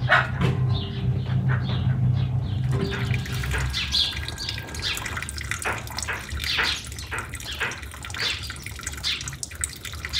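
Small birds chirping repeatedly in short calls. A low steady hum runs underneath and fades out about three and a half seconds in.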